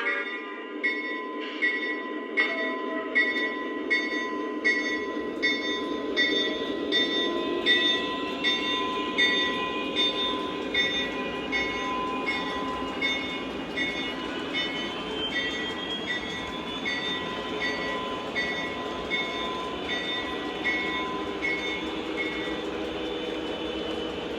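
Lionel O-gauge SD40T-2 model diesel locomotive pulling away with a heavy train: its onboard sound system plays diesel engine sound with a bell ringing about twice a second, which stops near the end. A whine rises over several seconds as it gathers speed.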